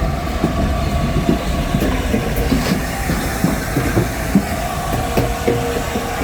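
LNER A4 Pacific steam locomotive moving off slowly, with irregular clanks and clicks from its wheels over the track over a steady low rumble and a held steady tone.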